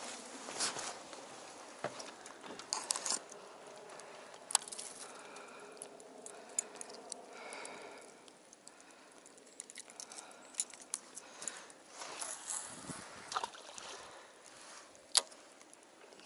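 Fishing tackle being handled in a small boat: scattered sharp clicks and knocks of a lure, rod and gear, over faint water lapping against the hull.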